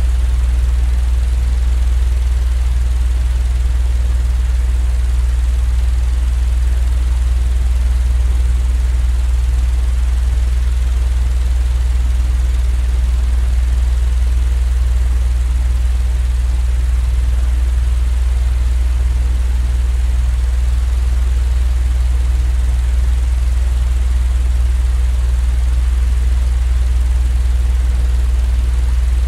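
Continuous low droning hum, loud and completely steady, with a faint hiss above it: a looped sleep-noise drone.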